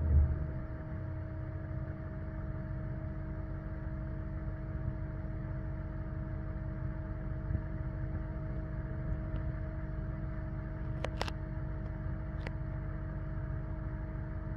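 Mercedes-Benz SL500's V8 on a cold start: the tail of a rev dies away in the first second, then the engine settles into a steady, even cold idle. Two or three faint clicks come near the end.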